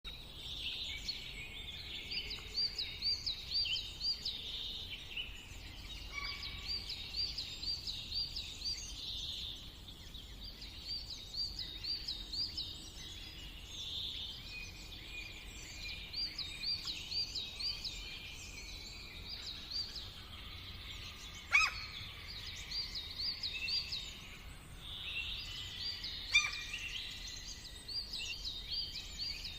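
Several songbirds singing in a forest in the morning, overlapping phrases of quick repeated notes. Two short sharp sounds stand out above the song, one about two-thirds of the way through and one near the end.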